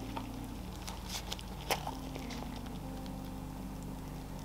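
Faint chewing of a sushi hand roll wrapped in tough nori, with a few soft clicks and crackles from the mouth, over a low steady hum.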